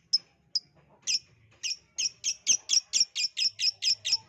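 Lovebird chirps: a series of short, sharp, high calls, about two a second at first, quickening to five or six a second from about two seconds in.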